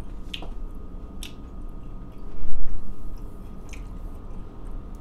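A person chewing a mouthful of meatless burger with the mouth closed: soft wet squishes and a few clicks. A low thump, the loudest sound, comes about halfway through.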